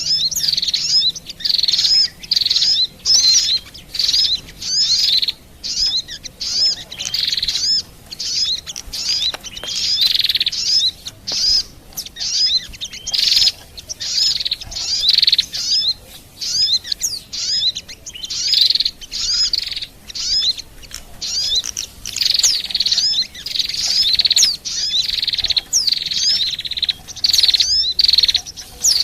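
Bird-lure recording of small songbirds chirping and twittering in high, rapid phrases that come in short, closely repeated bursts. The call is used to lure white-eyes, sunbirds and prinias.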